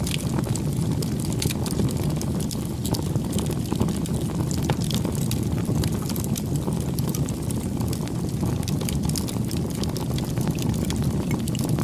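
Bonfire burning: a steady low rumble of the flames with frequent sharp crackles and pops of burning wood.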